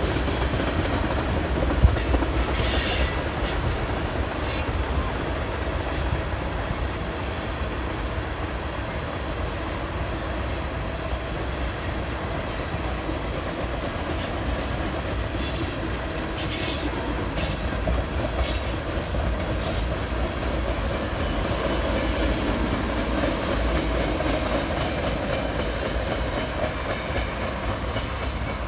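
Train rolling past on the rails, a steady rumble of wheels on track, with brief high wheel squeals now and then through the first two thirds.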